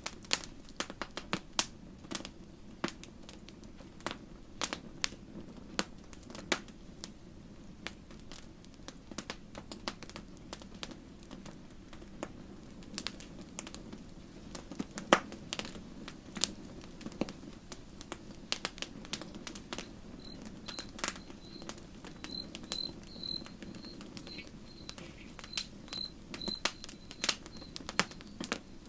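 Wood campfire crackling and popping, with irregular sharp snaps over a low steady burning hiss. About two-thirds of the way in, a series of short high chirps begins, repeating about twice a second.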